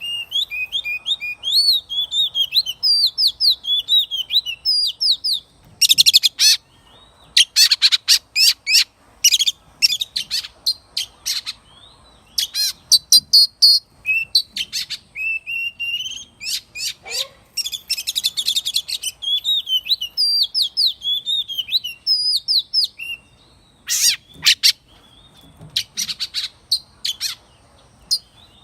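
Oriental magpie-robin singing. It gives varied whistled phrases that slide up and down, broken several times by runs of fast, harsh scratchy notes.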